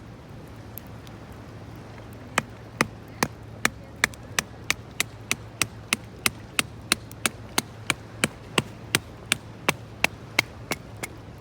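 A rapid, very regular series of sharp taps, about two to three a second, starting a couple of seconds in and stopping near the end, over a steady low background hum.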